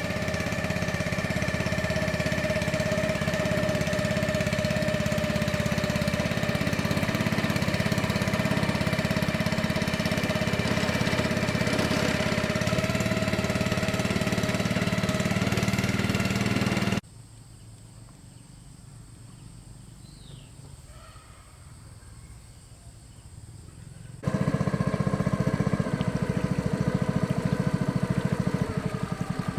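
Small boat engine running steadily with a fast, even pulse. It cuts off abruptly about 17 seconds in, leaving about seven seconds of much quieter background, then comes back just as abruptly.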